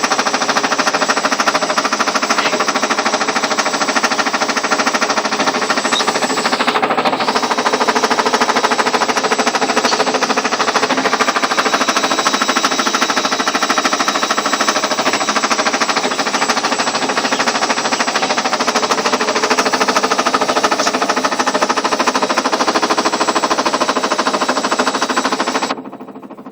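Ariston washing machine spinning, with a loud, rapid knocking from inside the machine that the owner calls a knock that should not be there. The knocking drops away abruptly near the end.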